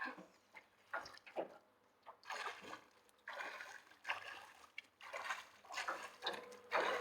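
Water splashing in short, irregular bursts, about one a second, from a swimmer's arm strokes in lake water.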